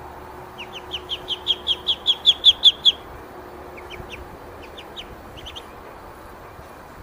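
A bird calling: a quick run of short, high chirps, about six a second, growing louder for a couple of seconds and stopping abruptly, then a few scattered chirps.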